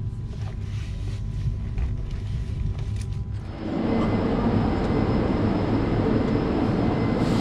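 Lastochka electric train: a low rumble with a faint steady hum, then about halfway through a louder, even rushing noise sets in and holds steady.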